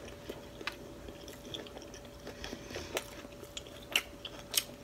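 A person chewing a mouthful of soft chicken taco close to the microphone, with scattered small wet clicks and smacks.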